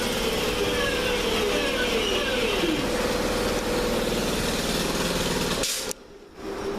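Class 323 electric multiple unit running at the platform, with the rumble of wheels on track and several whining tones from its traction equipment that glide down in pitch. The sound cuts off abruptly near the end.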